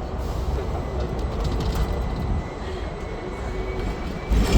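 Hong Kong double-decker tram running along its street track, a steady low rumble of wheels on rail with a faint wavering whine, and a short louder knock near the end.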